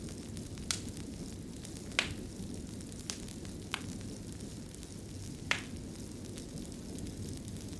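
Wood fire burning in a fireplace: a steady low rumble of flame with sharp crackling pops every second or so, five of them clear and a few fainter.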